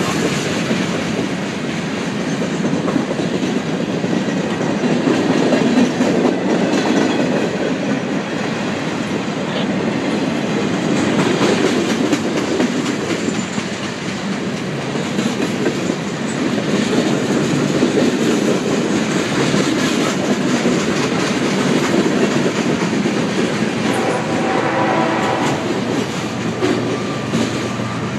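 A train's cars rolling past at track speed: a steady rumble of wheels on rail with a clickety-clack over the rail joints.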